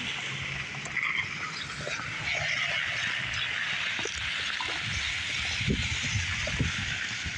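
Footsteps crunching through snow, a short crunch repeating at walking pace over a steady hiss.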